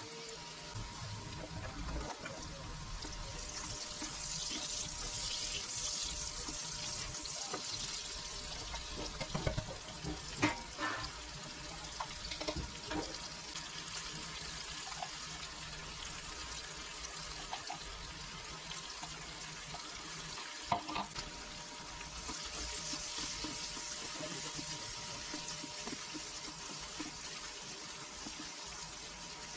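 Vegetables sizzling in hot oil in a small non-stick saucepan: diced carrots frying, then chopped onion and green pepper added and stirred with a spatula. The sizzle swells twice, and the spatula clicks and scrapes against the pan several times in the middle.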